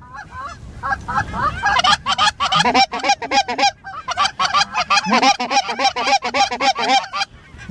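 Goose honks and clucks, rapid and nearly continuous, several calls a second with short lulls about four seconds in and near the end.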